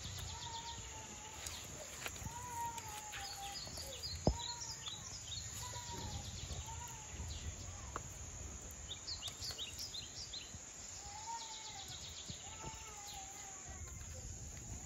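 Birds calling outdoors: one bird repeats a short whistled call that rises and falls, about once a second, among bursts of high twittering chirps, over a low background rumble. A single sharp click about four seconds in.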